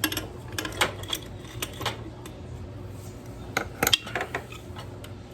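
Light metallic clinks and clicks of hand tools and small metal parts being handled during motorcycle engine work, a quick cluster of them a little past the middle.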